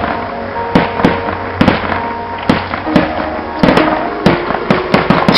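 Fireworks going off: a rapid, irregular string of sharp bangs, about a dozen, several coming in quick clusters. Live music plays steadily underneath.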